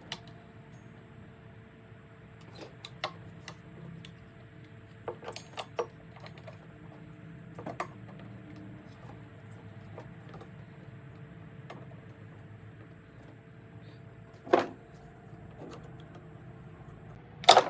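Tools and small metal parts of a disassembled leaf blower engine being handled: scattered light clicks and clinks, a sharper knock about three-quarters of the way through, and a louder clatter near the end, over a steady faint hum.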